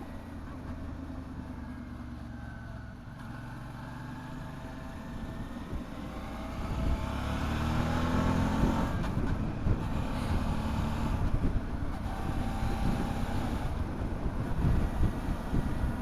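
Motorcycle engine heard from on board while riding: about halfway through it climbs in pitch as the bike accelerates, then runs on at speed, louder, with wind rushing past.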